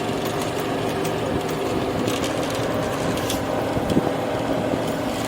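Bumper boat's small motor running steadily with an even hum, a faint tick about four seconds in.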